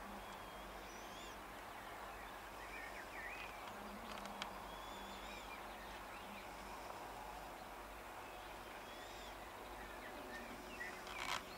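Faint outdoor background noise with small birds chirping and singing on and off, and a short knock near the end.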